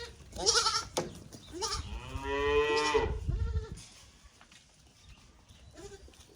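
A weaned calf bawls in one long moo about two seconds in, after a shorter call and a sharp knock. It goes quieter afterwards.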